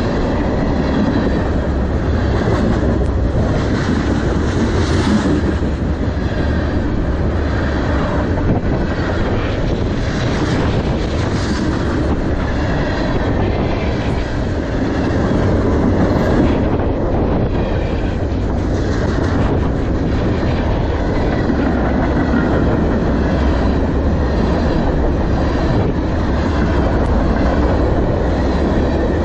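Freight cars of a manifest train rolling past right beside the track: a steady, loud rolling noise of steel wheels on the rails.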